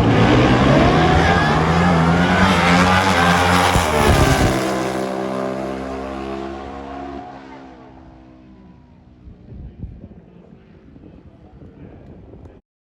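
Pro Stock drag motorcycles launching and running down the drag strip. The engines are loud and climbing in pitch for the first four seconds or so, then fade steadily as the bikes pull away, and the sound cuts off abruptly near the end.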